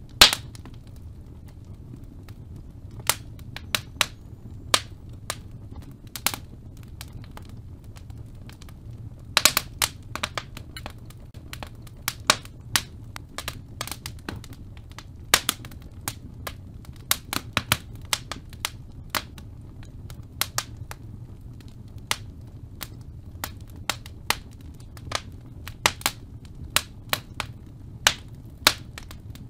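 Sharp clicks or snaps at an irregular pace, some louder than others, over a steady low hum.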